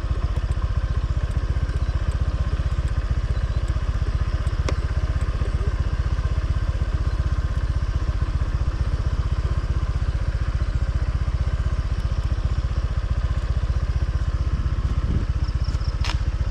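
Motorcycle engine running steadily at an even speed, with one sharp click about four and a half seconds in.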